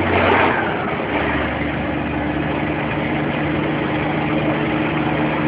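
Scania truck's diesel engine running steadily, heard from the cab. A short hiss comes near the start, and the engine note shifts about a second in, then holds steady.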